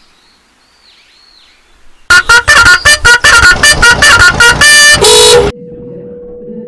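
Faint birdsong, then about two seconds in a sudden, extremely loud car horn honking in rapid blasts, about four a second, ending in two longer blasts. After that a single steady tone sounds over a low hum.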